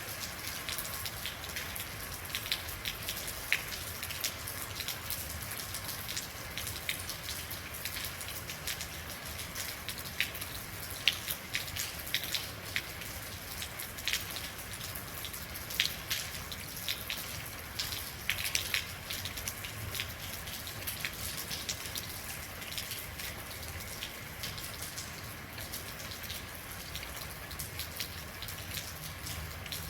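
Real rain falling steadily: an even hiss of rain with many individual drops ticking and plinking on hard surfaces at irregular moments.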